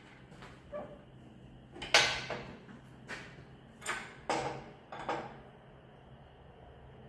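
A few sharp clunks and knocks as a big-block engine hanging from a hoist is shifted and nudged onto its mounts. The loudest comes about two seconds in, with two more close together around four seconds and a smaller one near five.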